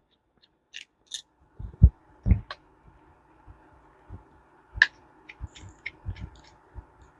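Scattered light clicks and taps of small metal reel parts and tools being handled during reassembly of a push-button fishing reel, with two dull low knocks about two seconds in.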